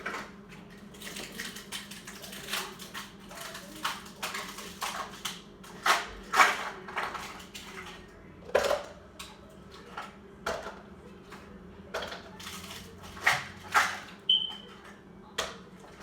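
Irregular clinks, clatters and knocks of household things being handled and moved, with a few louder knocks and one short high beep near the end.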